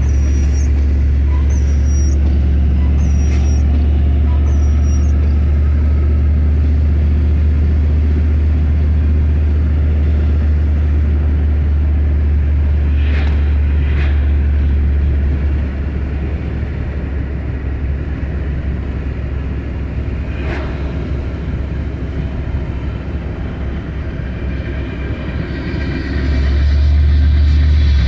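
Union Pacific train rumbling steadily, with a few sharp clicks around the middle. It eases off about halfway through and swells again near the end.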